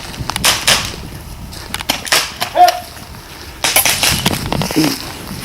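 Airsoft guns firing: a loose run of sharp snaps and short rustling bursts at irregular intervals, the loudest cluster about two seconds in and again from just under four seconds, with a brief high-pitched sound between them.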